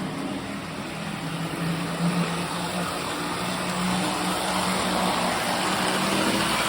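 Postwar Lionel O-gauge model train running on three-rail track: the steady hum of its electric motor under the rattle and rumble of wheels on the rails, growing a little louder toward the end.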